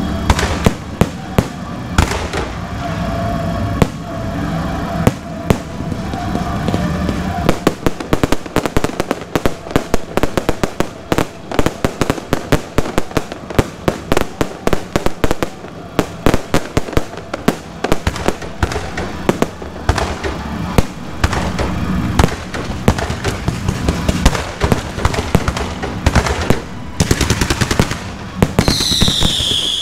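Aerial fireworks show: a rapid, unbroken barrage of shell bursts and crackling, with a falling whistle near the end.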